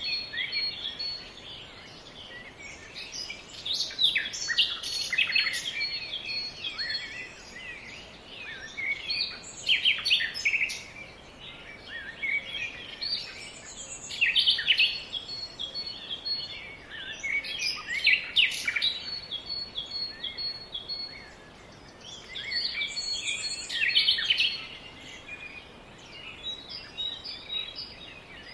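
Wild songbirds singing, with loud bursts of chirping song every four to five seconds and fainter high, repeated notes in between.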